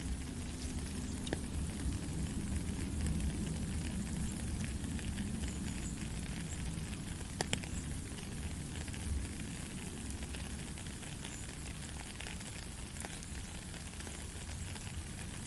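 Steady rain falling, a continuous hiss with many small drops ticking through it and one sharper drip or tap about seven seconds in.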